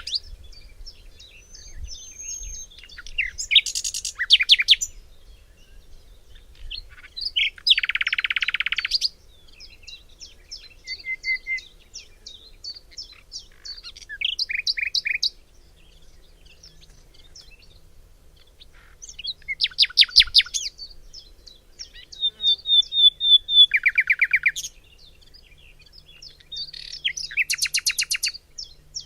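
Common nightingale singing in separate phrases of a few seconds each, with short pauses between: fast runs of repeated notes, trills, and a dense buzzy rattle.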